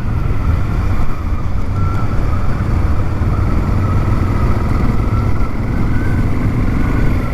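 Honda Africa Twin's parallel-twin engine running at a steady cruise while the motorcycle rides along a gravel road, with a constant low hum and road noise.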